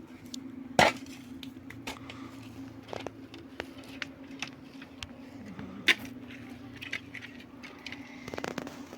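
A steady low hum with many scattered sharp clicks and knocks, two of them much louder, about a second in and again near six seconds.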